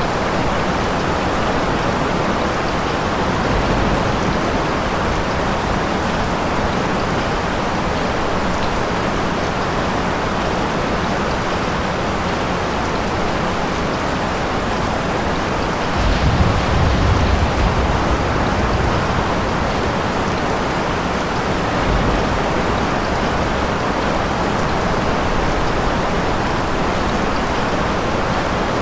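Steady rain falling, with a low rumble of thunder rising and fading about halfway through.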